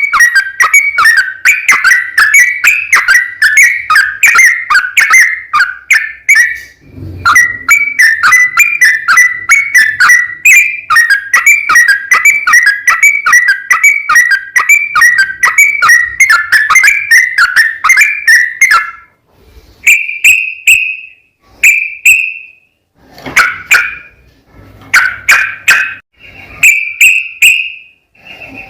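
Yellow-vented bulbul singing its rapid chattering 'ropel' song: long runs of quick repeated whistled notes with a brief pause about seven seconds in. In the last third the song changes to short separate phrases with gaps between them.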